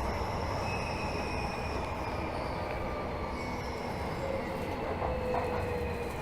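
Tokyo Metro 13000 series subway train running between stations, heard from inside the car: a steady rumble, with thin high tones that slowly fall in pitch, once at the start and again about halfway through.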